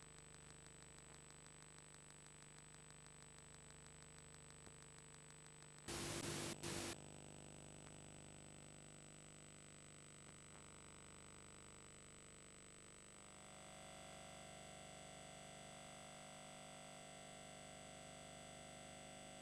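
Near silence of VHS tape playback: faint steady hum and hiss, broken about six seconds in by a burst of static lasting about a second, with a brief gap in the middle. The hum gets slightly louder about thirteen seconds in.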